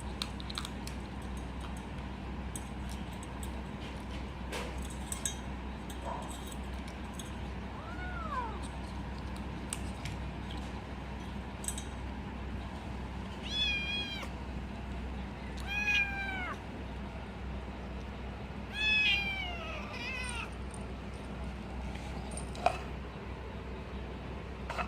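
Kitten meowing while it eats cat food: a handful of short, high calls spread apart, each bending down in pitch, with scattered small clicks between them over a steady low hum.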